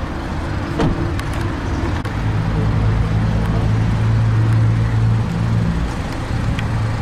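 A motor vehicle's engine running with a steady low hum that swells for a few seconds and then eases back. A sharp click comes about a second in.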